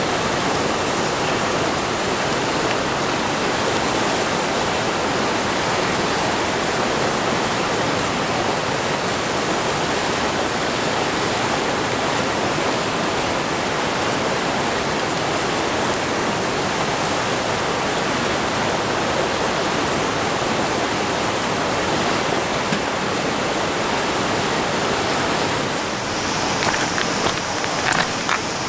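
Steady rushing of flowing river water. A few short clicks come near the end.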